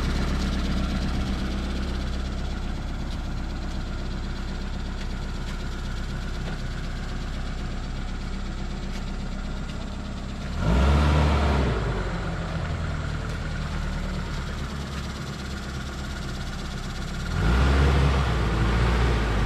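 Motor vehicle engine and road noise while driving, running steadily. About halfway through and again near the end it gets louder and rises in pitch as the engine is revved to pull harder.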